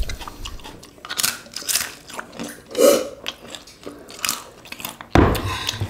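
Close-miked eating sounds: chewing of rice and squid in chilli sambal, with scattered short mouth and hand noises. A louder thump comes a little after five seconds in.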